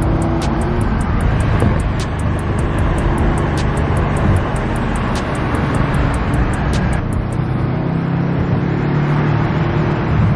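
Car engine running under way with steady road and tyre noise, as heard from a moving car.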